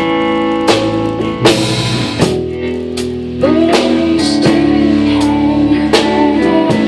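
Small band playing live: ringing guitar over drum-kit strikes.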